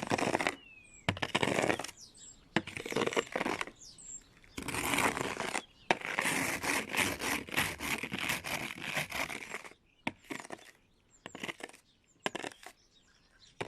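Snow being swept off a car: a run of brushing, scraping strokes, mostly short, with one longer stretch of several seconds in the middle and a few quick strokes near the end.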